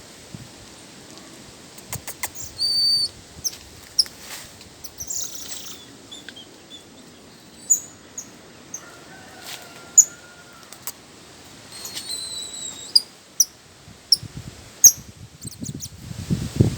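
Birds chirping: scattered short, high, sharp calls and a few brief whistled notes, with a quick run of calls about twelve seconds in.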